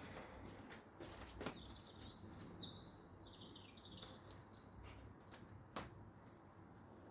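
A songbird singing a warbling phrase of high chirps for about three seconds, beginning about two seconds in. Two sharp clicks sound, one about a second and a half in and a louder one near the end.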